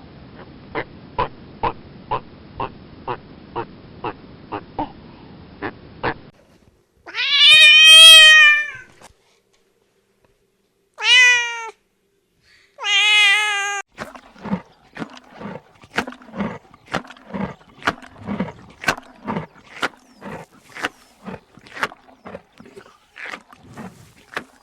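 A domestic cat meowing three times, the first call long and the loudest, the other two shorter. Runs of rapid clicking come before and after the meows.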